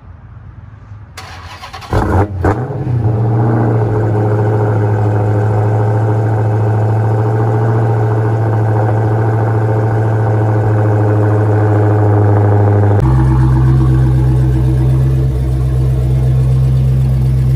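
Dodge Challenger SRT Hellcat's supercharged 6.2-litre Hemi V8 cold-started: the starter cranks briefly about two seconds in, the engine catches with a quick rev flare, then settles into a loud, steady fast idle. The idle note shifts abruptly about thirteen seconds in.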